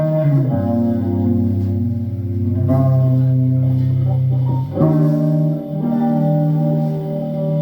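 Live band playing an instrumental passage led by guitar over bass, with held chords changing every couple of seconds.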